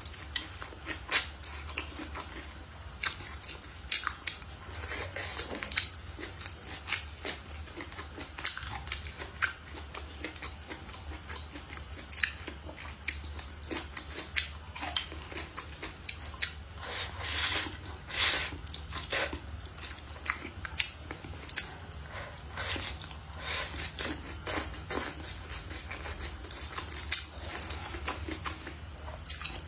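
Close-miked chewing and biting of noodles, stir-fried meat and green peppers: many short mouth clicks and smacks throughout, with a louder, denser stretch about halfway through, over a steady low hum.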